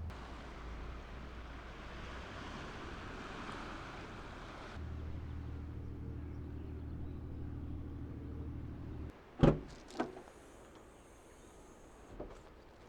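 A car's engine running with a steady low hum, cutting off about nine seconds in. Two loud sharp thumps about half a second apart follow, like a car door being shut, and then a lighter knock near the end.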